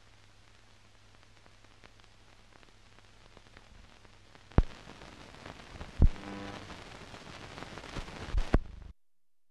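Surface noise from an old film soundtrack: hiss and crackle over a steady hum. About halfway through it grows louder, with three sharp pops and a brief buzz, then cuts off abruptly to silence near the end.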